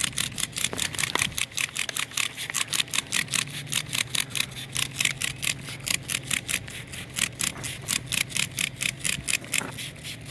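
Trigger spray bottle of Greased Lightning degreaser squirted rapidly over and over, about five squirts a second, each a short hiss of spray.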